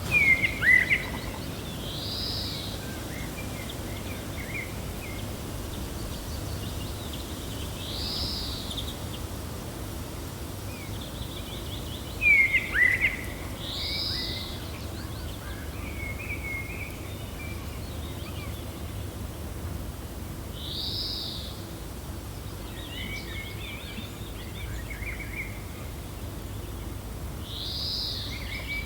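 Gentle steady wind with birds chirping: a short arched call repeats about every six seconds, with two louder bursts of chirps, one near the start and one about twelve seconds in, and softer twittering between.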